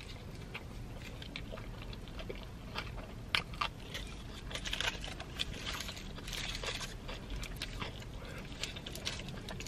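Close-up biting into and chewing a burrito, with scattered small wet clicks and crackles from the mouth and food over a low steady hum.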